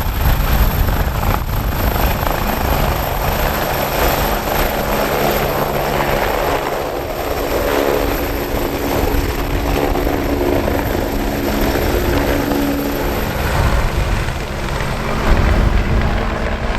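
AgustaWestland AW109S Grand New helicopter running close by: its twin turboshaft engines and rotor give a loud, steady mix of turbine tone and a deep blade rumble.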